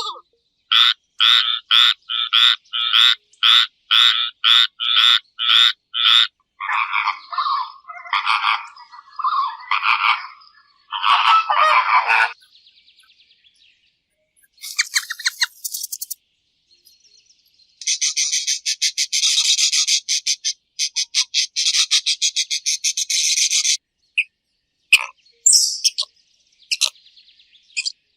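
A run of separate animal call recordings. First comes a steady series of short calls about two a second, then irregular calls, then a fast buzzing trill, and a few short chirps near the end.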